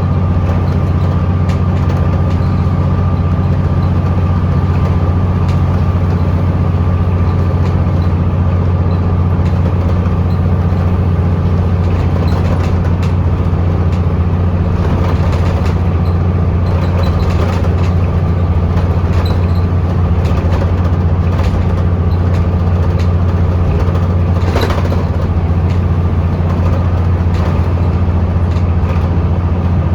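Scania L94UB bus's diesel engine running steadily, a constant low drone heard from inside the bus, with light rattles and one brief louder noise near the end.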